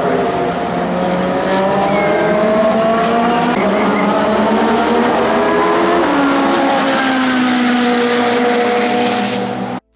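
Ferrari 458 Italia 4.5-litre V8 engines running hard on track, with several engine pitches rising and falling over one another. The sound cuts off suddenly near the end.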